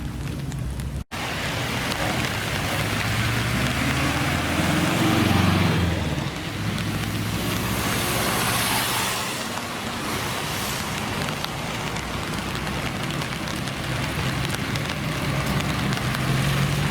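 Classic Japanese car engine accelerating: its pitch rises for a couple of seconds, then drops off about five seconds in, giving way to a loud rushing noise. Another engine's pitch rises near the end, and the sound cuts out for an instant about a second in.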